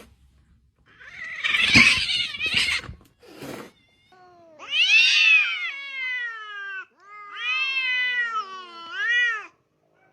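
A cat yowling in two long, drawn-out meows that rise and fall in pitch, after a short burst of noise.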